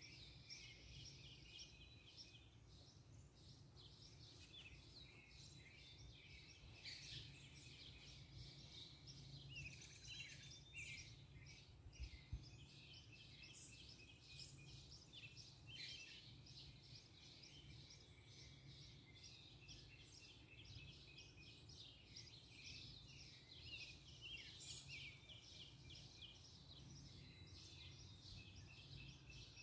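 Faint birdsong: several birds chirping and trilling, with short calls that overlap and come and go throughout.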